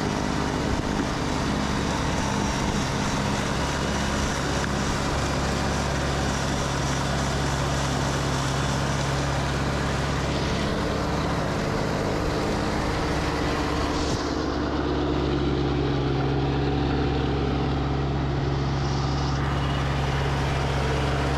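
Massey Ferguson GC2400 compact tractor's diesel engine running steadily at raised RPM, driving its snowblower. About two-thirds of the way in, the sound turns deeper and duller.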